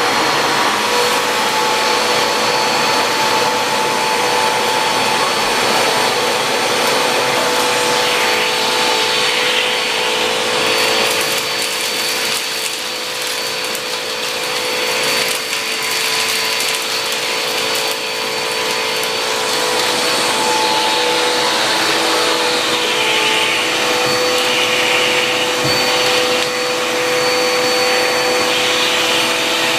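Budget upright vacuum cleaner running continuously with a steady motor whine, its rushing airflow noise swelling and easing as it works over a test mess of dust, coffee grounds, sawdust and cat litter.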